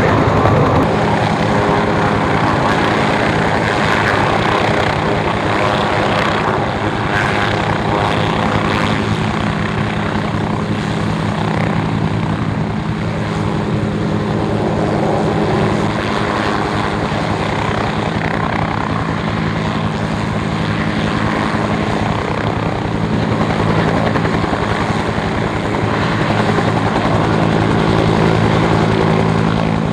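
Propeller aircraft engines running with a steady drone that holds its pitch.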